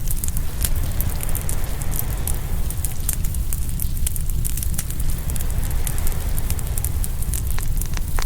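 Open wood fire crackling, with many sharp pops scattered through, over a steady low rumble and the wash of ocean waves.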